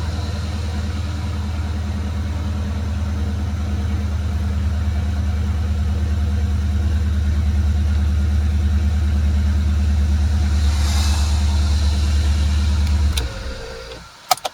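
BMW E39 M5's 4.9-litre S62 V8 idling steadily after a cold start, then shut off about 13 seconds in, the sound dying away quickly. Two sharp clicks follow near the end.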